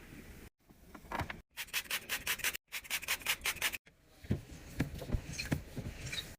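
Rapid, even scrubbing strokes on a hard surface, about seven a second, broken up by abrupt cuts, then a few scattered light knocks near the end.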